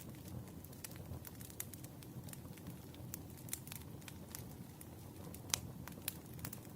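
Campfire ambience: wood fire crackling, with a steady low rumble and scattered sharp pops and snaps. The loudest pop comes about five and a half seconds in.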